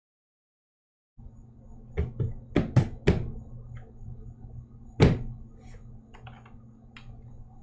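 Dead silence for about a second, then a low steady hum under a quick run of sharp knocks and thumps, one more loud knock about five seconds in, and a few lighter clicks.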